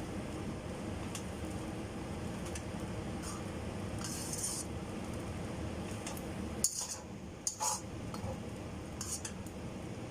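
Kitchen utensils clinking and scraping against cookware a few times, short sharp strokes over a steady low hum.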